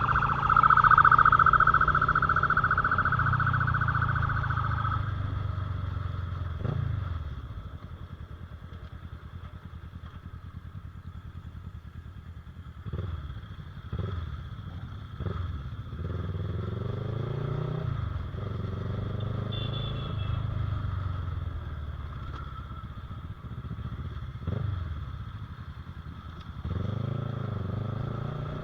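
Motorcycle engine being ridden, its pitch rising and dropping again and again as it accelerates and shifts gears. For the first five seconds a loud, steady high-pitched tone sounds over it, then cuts off.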